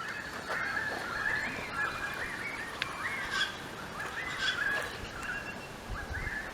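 Birds calling, a steady run of short, overlapping calls that rise and fall in pitch.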